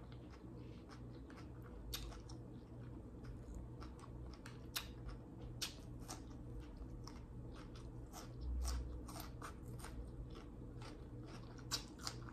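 Close-up chewing and biting of crispy fried chicken: irregular crunches and mouth clicks, with a low steady hum underneath.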